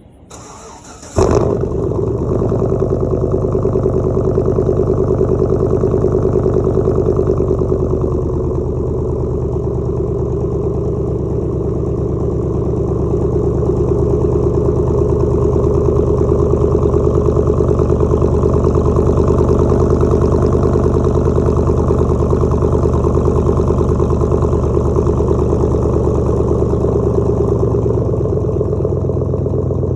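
Cold start of a 2012 Chevy Silverado's 4.8 L Vortec V8 running through straight pipes with only the factory catalytic converters: the starter cranks for about a second, the engine catches with a sudden loud burst, then settles into a steady idle.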